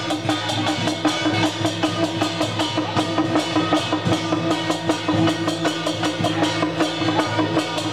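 Procession music with rapid, steady drumming and percussion strikes over sustained tones, playing without a break.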